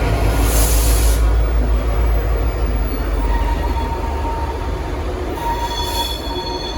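N class diesel locomotive moving off, its engine a steady low rumble that eases slowly, with a short hiss of air about a second in. Near the end the wheels begin to squeal with thin high tones.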